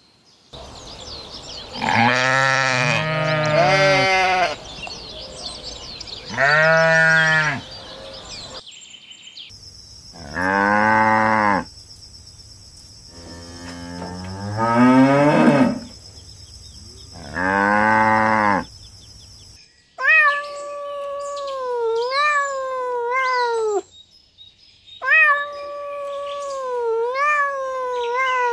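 Sheep bleating a few times, then a cow giving three long moos over a steady high background whine, then a domestic cat meowing in two long, wavering calls near the end.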